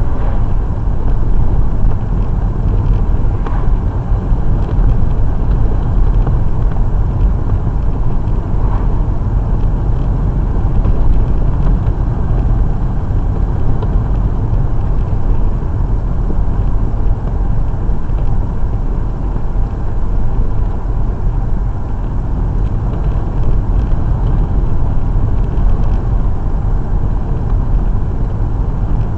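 Steady road and engine noise of a car being driven, heard from inside the cabin: a constant low rumble with no change in pace.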